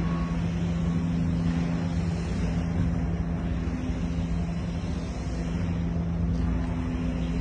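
Vehicle engine and road noise: a steady low rumble with a constant hum, the sound of a truck running at a steady pace.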